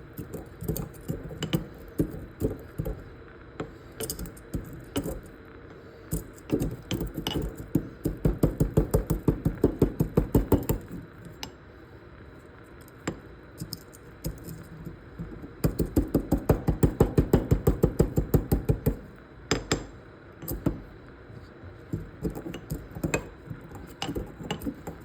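Whole spices (cardamom seeds, cloves, black peppercorns) being pounded in a mortar and pestle: scattered taps and clinks, with two long runs of quick, evenly spaced strikes, the first about eight seconds in and the second about sixteen seconds in.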